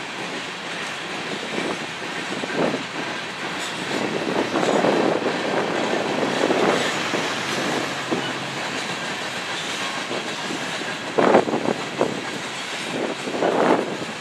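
Empty covered grain hopper cars of a freight train rolling past, their steel wheels clattering over the rail joints with louder bursts of clatter every couple of seconds.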